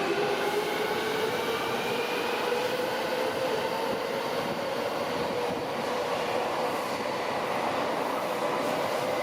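An electric subway train running in an underground station, with steady rail noise. A motor whine rises slowly in pitch over the first few seconds, then holds steady.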